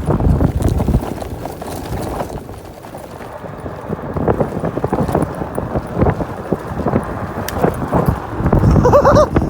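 Irregular knocking and rattling from a phone-mounted camera on an electric scooter ridden over a bumpy surface, with wind on the microphone. A short wavering pitched sound comes near the end.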